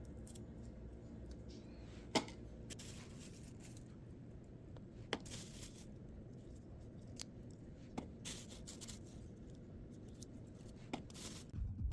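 Plastic storage boxes and packaging being handled while a fridge is sorted: four sharp clicks about three seconds apart, each followed by a brief crinkle of plastic, over a faint low hum.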